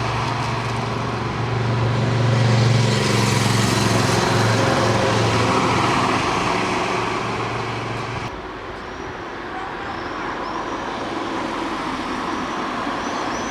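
A train running, a steady rumbling noise with a low hum. About eight seconds in it cuts abruptly to a quieter, lighter running noise, with a few short high chirps near the end.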